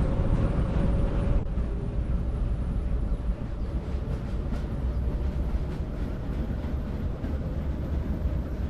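Train running: a steady low rumble with a faint hum over it.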